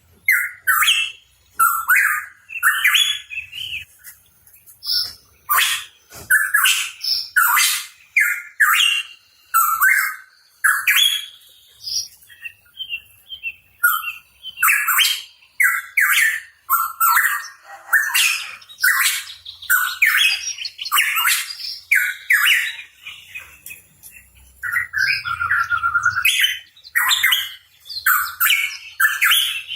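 Hooded pitohui calling: a fast, unbroken run of short whistled and harsh notes, thinning out briefly about twelve seconds in.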